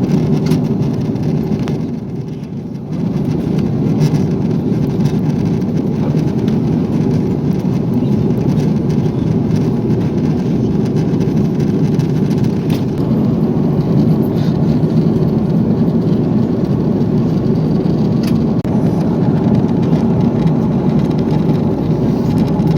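Steady roar inside an Airbus A340 passenger cabin, the sound of its engines and the air rushing past the fuselage, with a brief dip about two seconds in.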